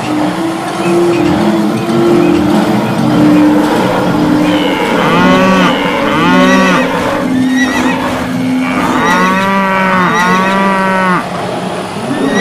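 Cattle mooing: two pairs of long, drawn-out moos that rise and fall in pitch, over the steady rumbling noise of a stampeding herd.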